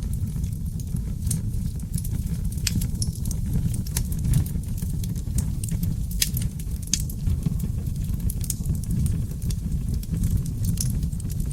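Wood fire burning in a fireplace: a steady low rumble of flames with frequent, irregular sharp crackles and pops from the burning oak logs.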